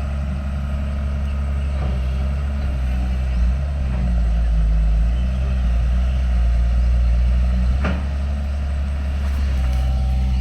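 Heavy earthmoving machine's diesel engine running steadily under work, with a single metallic knock about eight seconds in.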